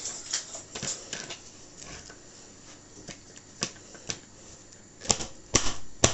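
Scattered clicks and knocks of kitchen utensils and garlic being handled, with a cluster of sharper knocks about five seconds in.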